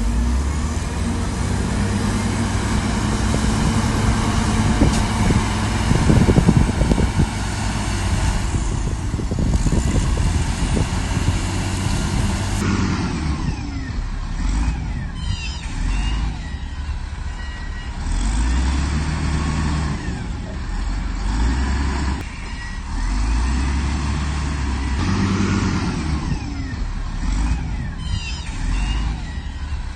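Diesel engine of heavy earthmoving machinery working, with some knocks about six seconds in. Later the engine revs up and down again and again under changing load.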